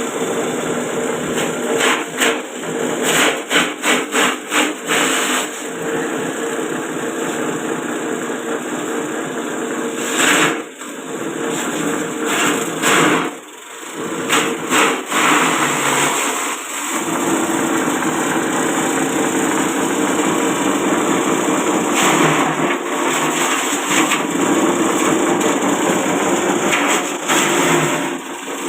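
Small forage chopper driven by a 1/4 hp electric motor running steadily, its blades whirring, with runs of quick knocking strikes as stalks are fed in and chopped: a couple of seconds in, and again from about ten to seventeen seconds in.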